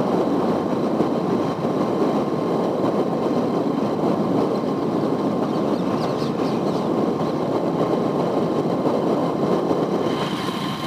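Steady rumbling noise of a moving vehicle, like engine and road and wind noise, with no clear change in level.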